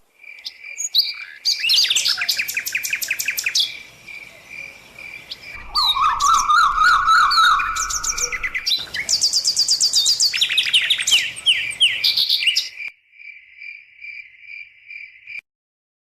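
Lovebirds chirping and chattering in quick high calls, over a steady, fast-pulsing high trill. The sound cuts off abruptly near the end.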